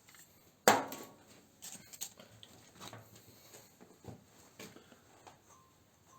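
Handling noises of tools and small metal parts on a workbench: one sharp clack about two-thirds of a second in, then scattered lighter taps and clicks.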